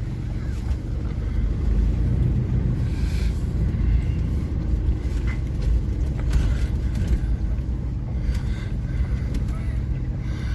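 Chevy S10 Blazer's 4.3 V6 running while the truck is driven, a steady low engine and road rumble from inside the cab, with a few light clicks and knocks.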